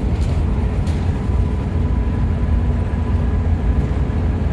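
Hino RM 280 coach on the move: a steady low rumble of engine and road noise, with a faint steady hum above it.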